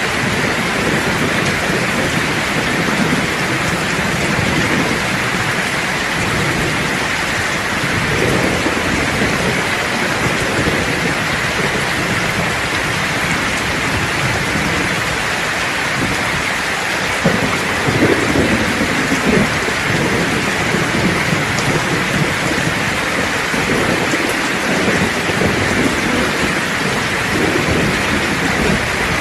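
Steady heavy rain hissing, with low rolling thunder that swells and fades through it, loudest a little past the middle.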